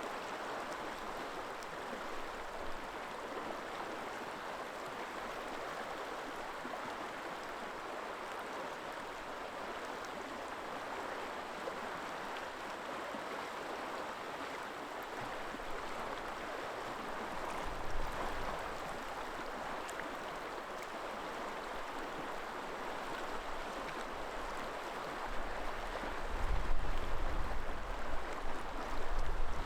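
River water flowing in a steady rush. Near the end, gusts of wind rumble on the microphone in uneven bursts.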